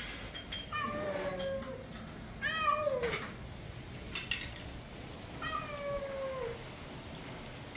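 Cat meowing three times, each meow a drawn-out call that falls in pitch, with a few faint clinks between them.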